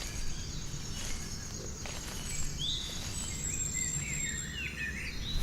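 Outdoor nature ambience: small birds give short chirps every second or so over a steady high insect trill and a low, even rumble.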